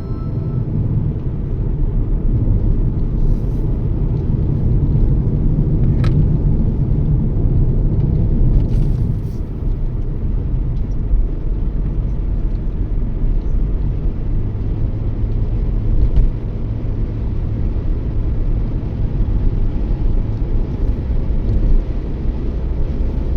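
Toyota Yaris driving: a steady low rumble of road and engine noise, with a brief click about six seconds in and another about nine seconds in.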